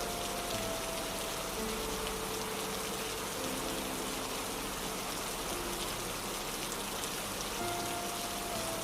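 Steady rain-like hiss of a nature ambience track, with soft, slow held music notes that change every second or two.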